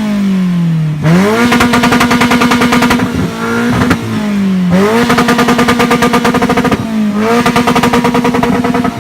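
A car engine revved hard and held against the rev limiter, stuttering rapidly like machine-gun fire. The revs drop off briefly and climb back to the limiter about three times.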